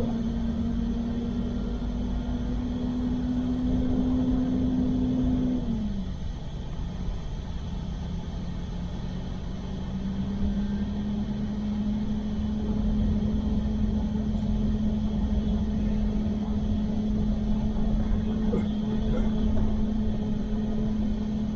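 Pickup truck running, heard from inside the cab as it drives slowly: a steady engine and road drone that drops as the truck slows about six seconds in, then rises again as it pulls away about ten seconds in and holds steady.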